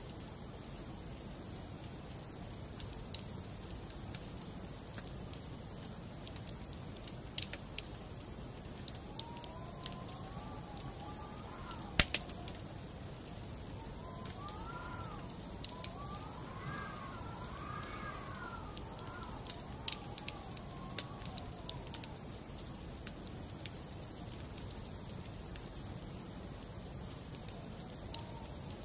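Wood fire in a fireplace crackling: sharp pops over a steady low rush, with one loud pop about twelve seconds in. Through the middle a faint wavering wail rises and falls for several seconds.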